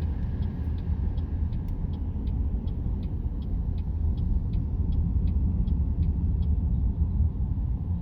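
Low road and tyre rumble inside a moving car's cabin, with the turn-signal indicator ticking about three times a second for around five seconds and then stopping as a lane change is made.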